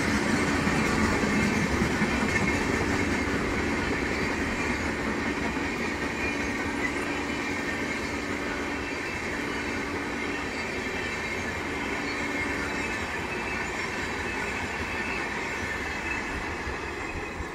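Indian Railways high-capacity parcel vans passing close by, a steady noise of wheels on rail. A steady tone comes and goes through the first two-thirds, and the sound slowly eases off toward the end.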